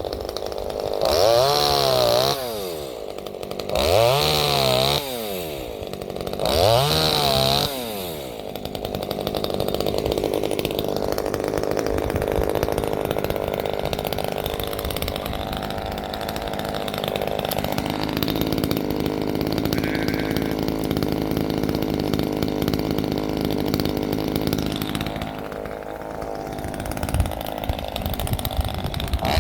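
A 25.4cc two-stroke top-handle chainsaw revving up and dropping back three times, then running steadily at a lower, even speed for about twenty seconds.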